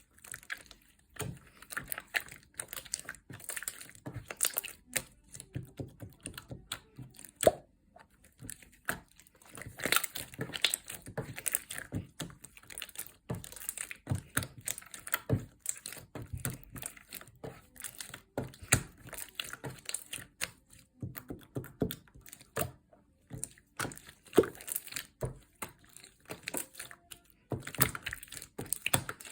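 Slime being handled by hand, making a steady run of irregular crackling clicks, pops and soft squelches.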